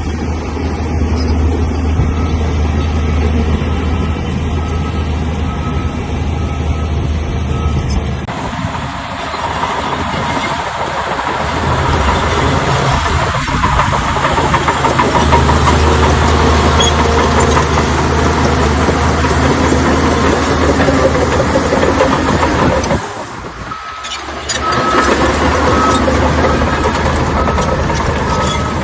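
Heavy diesel engine of a Shantui crawler bulldozer running under load with a steady low drone. The working noise grows louder and rougher about eight seconds in, dips briefly around three-quarters of the way through, and is joined by a repeated short beep near the end.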